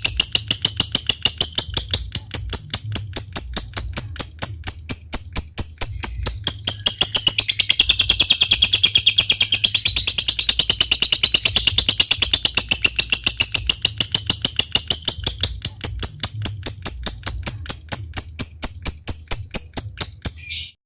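Lovebird ngekek panjang: one long, unbroken run of sharp, high chattering notes, about four or five a second, dipping a little lower in pitch midway and stopping just before the end. A faint low hum lies underneath.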